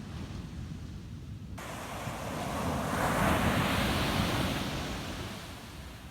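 Ocean surf on a beach: a wave breaks and washes in, swelling to its loudest about three seconds in and then fading, over a steady low rumble of surf.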